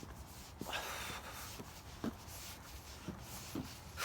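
Footsteps walking at an even pace, about two steps a second, with a brief rustle about a second in.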